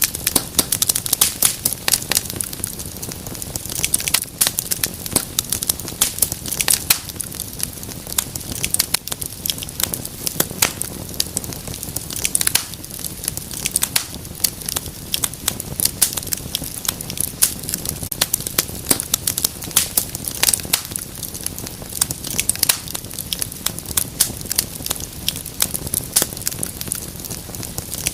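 Wood fire in a fireplace crackling steadily, with many sharp, irregular pops and snaps over a low hiss of burning.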